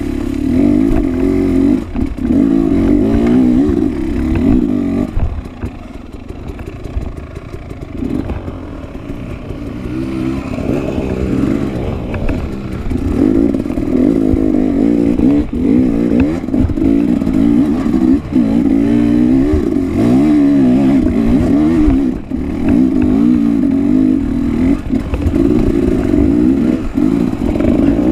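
Enduro dirt bike engine revving up and down under changing throttle, with a quieter, lower-revving stretch from about a fifth to a third of the way in.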